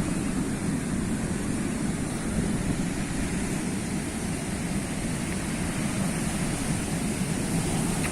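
Sea surf: a steady, low rush of waves with no single breaker standing out.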